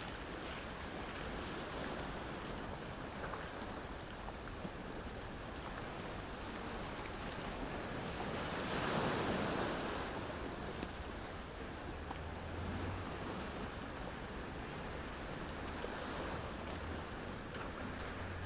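Ocean waves washing on the shore, one wave swelling and breaking about nine seconds in, with a wood fire crackling faintly now and then.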